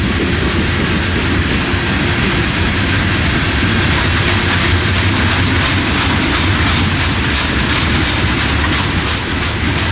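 Freight train rolling past at speed: a steady rumble of wheels on rail with regular clicks as the wheels cross rail joints.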